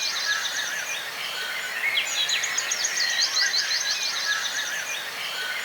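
A songbird singing, repeating the same phrase of rapid, high notes about every four seconds over a steady background hiss.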